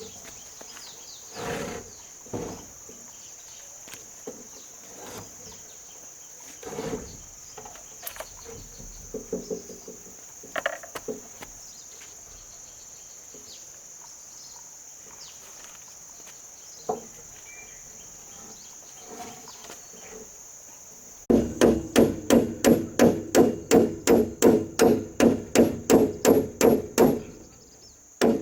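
Steady high insect drone with scattered knocks and taps of work on wood. About 21 seconds in, a run of loud, rapid hammer blows starts, about three to four a second, breaking off briefly near the end.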